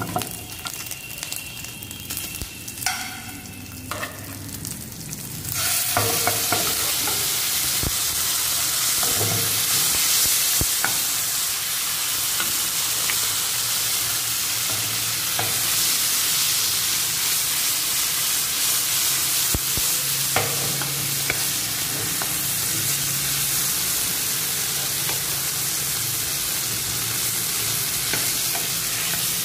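Small mutton kebabs and fried onions sizzling in hot oil in an aluminium frying pan as a tadka. About five seconds in, the sizzle jumps much louder as mutton harissa goes into the hot oil, then keeps sizzling while a metal spoon stirs and scrapes the pan.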